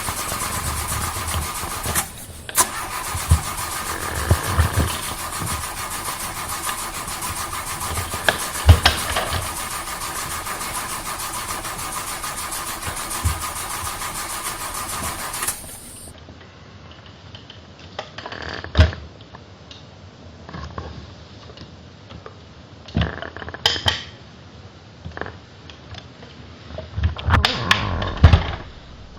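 A Ford Mustang engine cranking on its starter without catching: a steady whirr for about fifteen seconds, then it stops abruptly. Only scattered short clicks and knocks follow.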